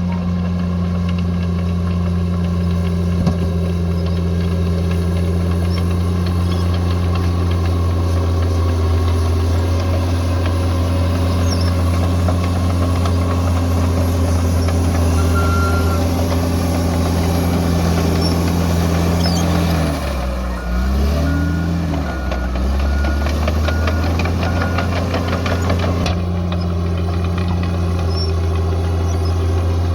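Bulldozer's diesel engine running steadily under load. About two-thirds of the way in, its pitch drops sharply and then climbs back. This is followed by a run of evenly spaced high beeps lasting a few seconds.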